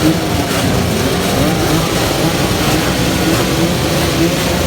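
Dirt bike engines running at a motocross race, a steady loud engine noise whose pitch shifts up and down with the throttle.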